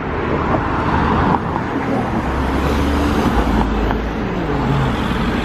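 Steady engine and road rumble of a vehicle being driven, heard from inside; the engine note drops in the second half.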